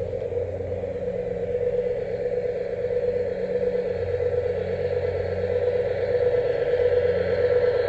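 Garden-railway model diesel locomotive running: a steady humming tone over a low rumble that swells and eases.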